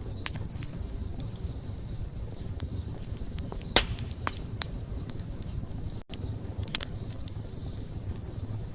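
Wood fire crackling: scattered sharp pops and snaps over a low, steady rumble of the flames, with the loudest pop near four seconds in. The sound drops out for a split second about six seconds in.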